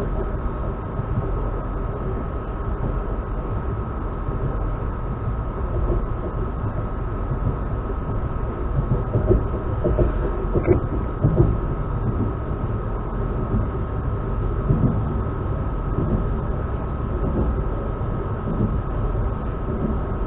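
Electric commuter train running along the line, heard from inside the carriage: a steady low rumble with a constant high hum and occasional knocks from the wheels on the track.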